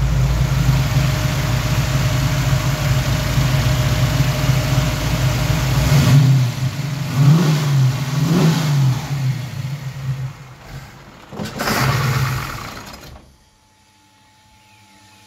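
Ford V8 on a Holley Sniper EFI running steadily, then its revs rising and falling twice, one more brief swell, and the engine cutting out suddenly about 13 seconds in. This is the engine dying when warm, which the owner traces to a heat-damaged Sniper ECU, probably a loose solder joint on its circuit board.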